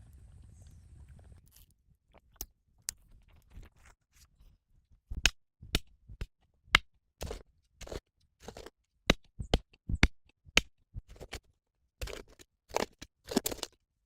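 A low steady rumble for the first second and a half, then an irregular series of sharp knocks and clicks, about one or two a second, growing louder and closer together toward the end.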